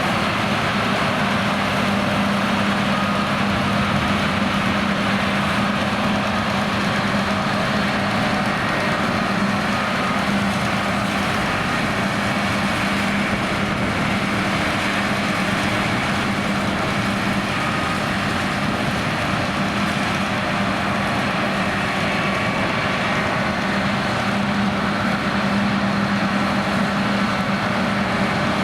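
John Deere X9 1100 combine harvester running steadily: a constant machine drone with a steady low hum.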